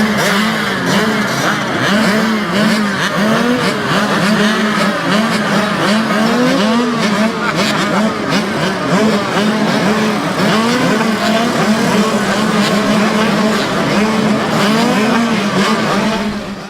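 A pack of mini motorcycles racing, their small engines revving up and down together in many overlapping rising and falling engine notes.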